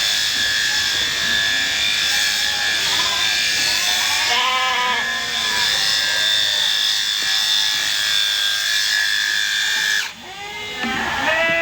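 Electric sheep-shearing handpiece running with a steady high whine that cuts off suddenly about ten seconds in. Sheep bleat a few seconds in and again just after the shears stop.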